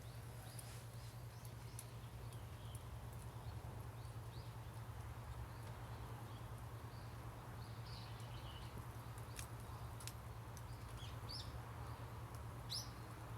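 A wood fire settled to embers, crackling faintly with scattered sharp little pops, while small birds chirp now and then in the background over a steady low rumble.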